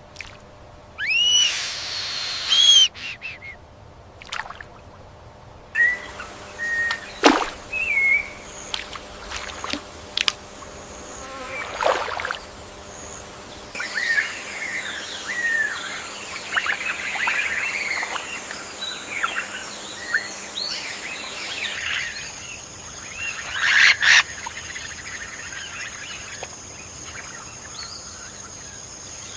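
Birds calling in rainforest ambience: a loud call with two or three notes about a second in, then many scattered chirps and short whistled calls, over a steady high insect drone.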